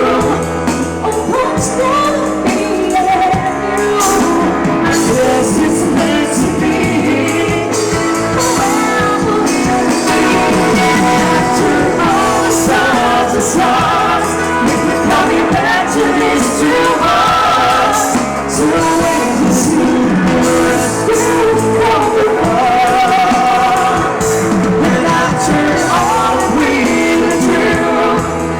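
A pop-rock song with a voice singing over a band, with guitar, bass and drums, playing steadily throughout.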